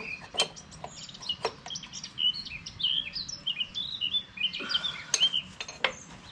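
Small birds chirping busily, with many short, quick calls, while a few sharp clicks or knocks sound through them.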